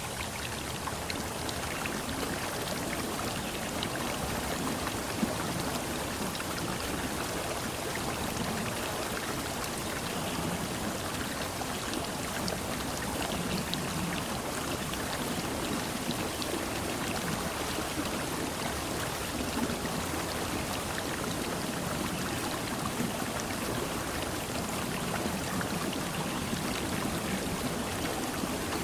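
Steady splashing and trickling of water, with scattered drip-like ticks and one sharper tick about five seconds in.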